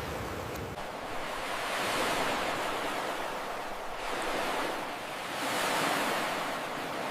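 Ocean surf: waves breaking and washing in, the rush swelling and easing in slow surges every two to three seconds.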